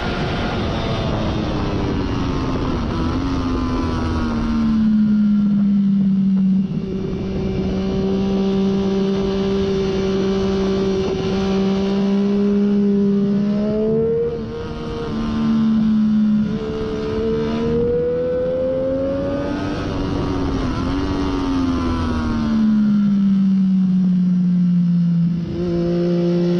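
Triumph Daytona 675's three-cylinder engine through a Hindle slip-on exhaust at track pace. It winds down through downshifts, pulls steadily, changes gear twice in quick succession with short dips, climbs again, then winds down once more. Wind rushes over the microphone throughout.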